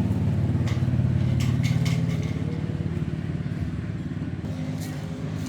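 A small engine running steadily and slowly getting quieter, with a few light clicks over it.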